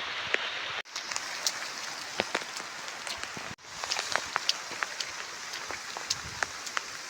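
Heavy rain falling steadily, with many single drops ticking sharply through the hiss. The sound cuts out for an instant twice.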